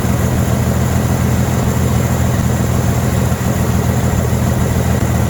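1979 Jeep J10's AMC 258 inline-six engine idling steadily.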